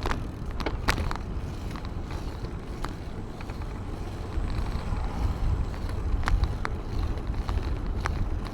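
Riding noise on a moving bicycle: a steady low rumble of wind and road on the microphone, with scattered light clicks and rattles.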